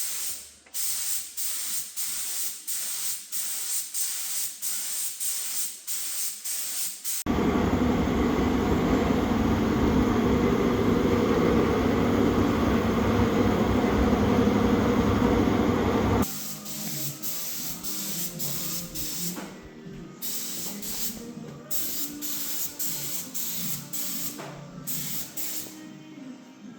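Air spray gun spraying primer onto a truck hood: short hissing bursts repeating about twice a second, then a sudden louder steady rush with a low rumble for several seconds, then quieter bursts again.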